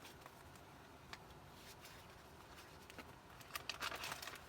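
Faint handling of a handmade paper junk journal: pages and tucked cards being turned and moved, with a few light ticks and soft paper rustling that grows louder near the end.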